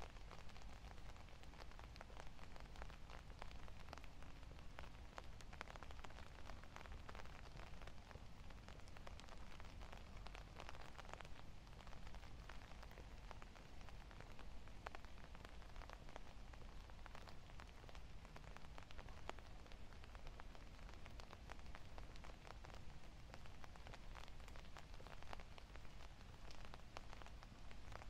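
Steady rain pattering, a dense scatter of small drops ticking, over a low steady rumble.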